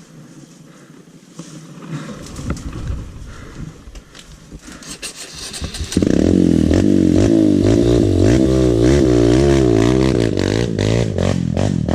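Dirt bike engine starting abruptly about halfway through, then running with the throttle blipped so the revs rise and fall again and again. Before it starts there is scraping and handling noise.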